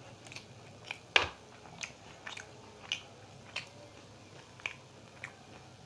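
Crisp fried samosa being bitten and chewed close to the microphone: a series of sharp crunches about every half second, the loudest about a second in.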